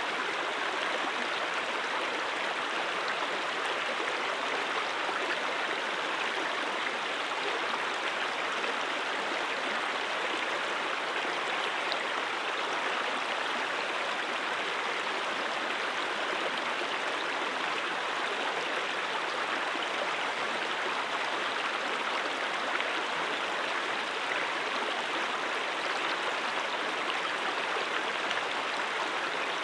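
A stream running over rocks, a steady, even rush of water.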